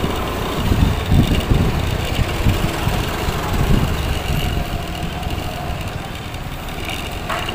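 Riding a motorcycle, heard through a helmet-mounted microphone: uneven wind buffeting on the mic over the engine running underneath.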